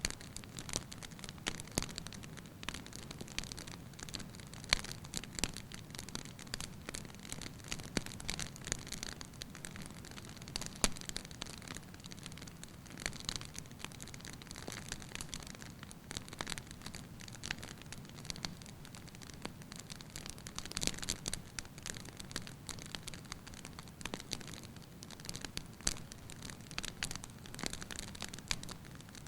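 Wood fire in a fireplace burning steadily, logs crackling and popping at irregular intervals over a low soft rush of flame.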